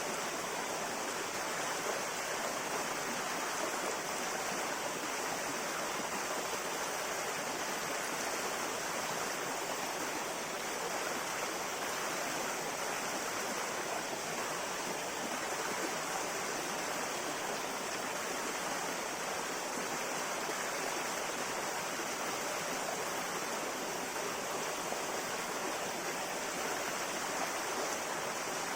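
A river flowing steadily over rocks, a constant rushing and babbling of water with no change in level.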